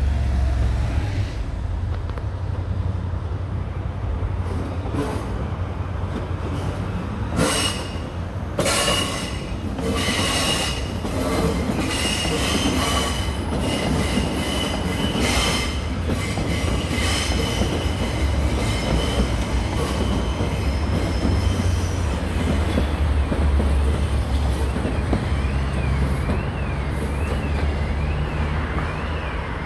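Athens Metro Line 1 electric train passing, wheels clacking over rail joints for several seconds and squealing with a steady high pitch on curved track. The squeal wavers up and down near the end, over a constant low rumble of road traffic.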